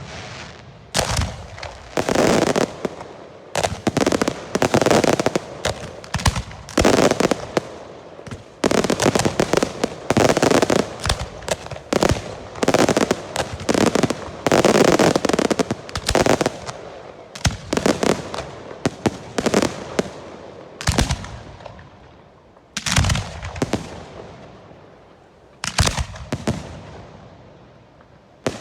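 Girândolas, volleys of Portuguese festival skyrockets, bursting in rapid strings of loud bangs. Each report rings out and fades behind it. The firing is densest in the first two-thirds and thins to a few single bangs near the end.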